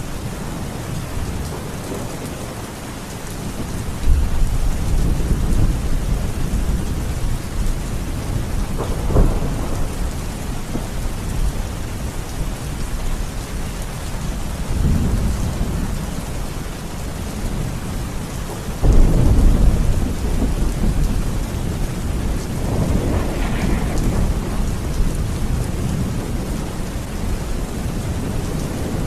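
Steady rain falling, with rolling thunder: deep rumbles swell in and out several times, one sharper crack comes about a third of the way through, and the loudest rumble breaks in suddenly a little past the middle.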